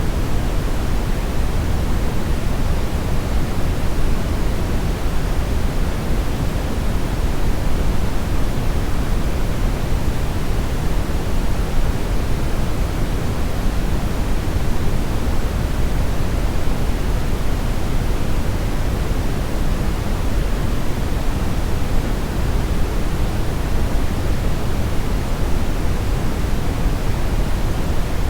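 Steady synthetic brownish noise, an even rushing hiss weighted toward the low end, with no changes or events.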